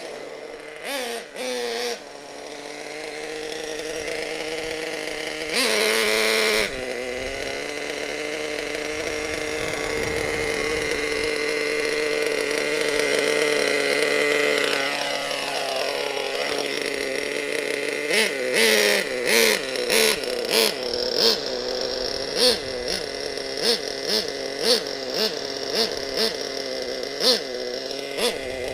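Single nitro engine of a twin-engine RC monster truck running with its high-speed needle set very rich, only one of its two engines going. Revs climb slowly, drop about halfway through, then come in short repeated throttle blips about once a second near the end.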